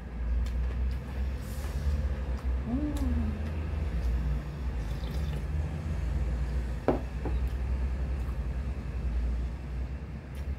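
Chewing mouthfuls of fried banana fritter, with a few soft mouth clicks, over a steady low rumble. A short sharp click about seven seconds in.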